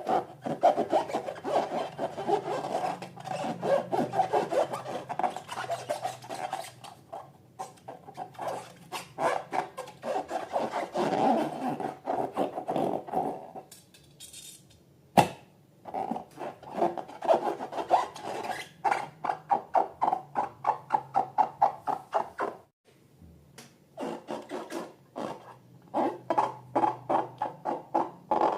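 Rubber balloons being rubbed by hand in quick, repeated strokes, about three a second, with short pauses and one sharp click about fifteen seconds in.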